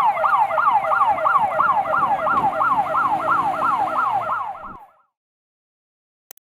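Fire engine's electronic siren sounding a fast yelp, rising and falling about five times a second. It cuts off abruptly about three-quarters of the way through.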